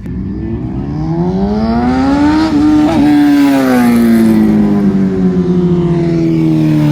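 Motorcycles pulling up, their engines getting louder. The engine pitch climbs for the first two and a half seconds, then slowly falls as they ease off.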